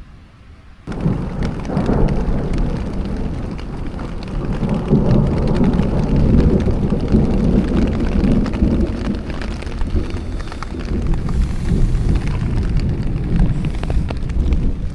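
Thunderstorm: heavy rain with thunder rumbling. It starts abruptly about a second in, and the rumble swells through the middle.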